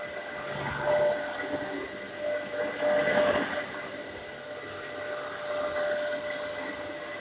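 Dyson DC07 bagless upright vacuum cleaner running, a steady high whine over rushing air, with a higher hiss that cuts in and out several times.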